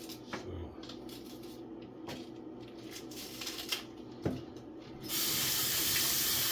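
A few light knocks and clicks of kitchen items being handled, then about five seconds in a kitchen tap is turned on and water runs steadily.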